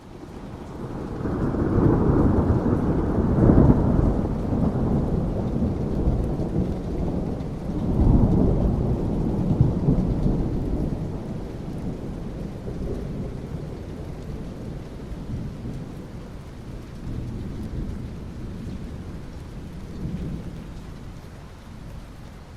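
Thunder rumbling over steady rain. The roll swells over the first couple of seconds, peaks twice (around two to four seconds in and again near eight seconds), then dies down to a lower, drawn-out rumble.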